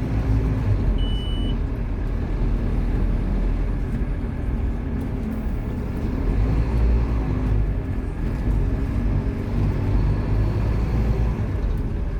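Scania K230UB Omnilink single-decker bus's five-cylinder diesel engine running steadily, a low rumble whose pitch wavers slightly. A short high beep sounds about a second in.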